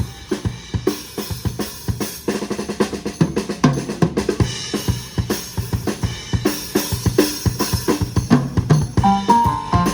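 Drum kit playing a break of fast bass drum, snare and rim strokes. Near the end the wind band's sustained horn notes come back in.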